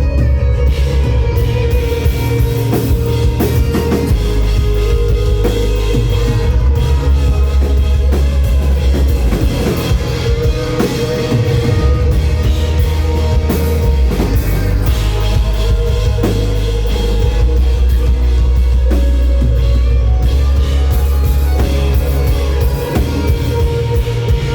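Rock band playing an instrumental passage live, with a drum kit and heavy bass notes that change every couple of seconds under a held higher tone.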